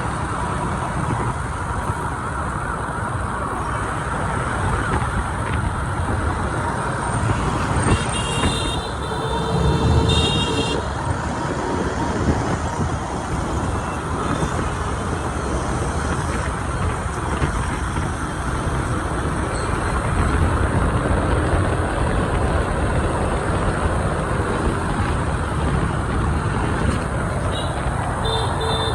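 Motorbike and scooter traffic heard from a moving motorbike: a steady mix of engines and road noise. Horns beep for a couple of seconds about eight seconds in and again near the end.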